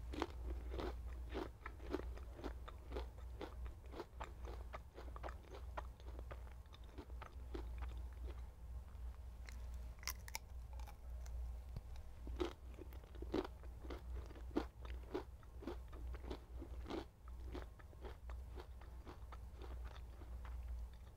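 Close-up mouth sounds of turkey bacon being bitten and chewed: a steady run of crunches, two or three a second.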